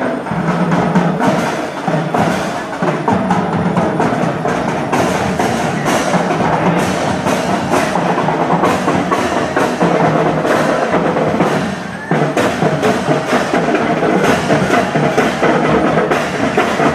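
Parade music with drums and sharp wooden-sounding percussion strikes keeping a beat, with a brief drop in level about twelve seconds in.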